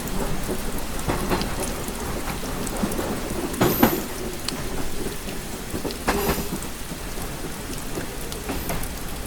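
Rain pattering steadily on a train window, with heavier drops tapping sharply against the glass, most clearly about three and a half seconds and six seconds in, over a steady low rumble.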